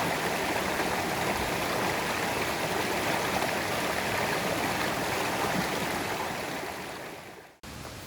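Stream water rushing steadily over rocks, fading out near the end.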